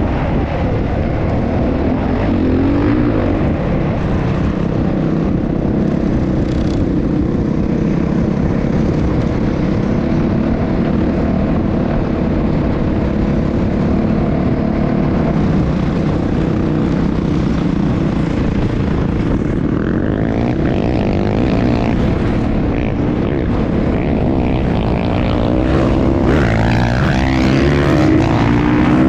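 Motocross bike engines running, with the pitch rising and falling as they rev about two-thirds of the way through and again near the end.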